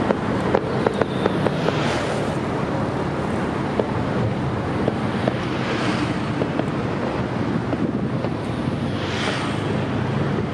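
Fireworks crackling with many short sharp pops over a steady rumble of wind on the microphone and traffic; three louder swells of hiss come about 2, 6 and 9 seconds in.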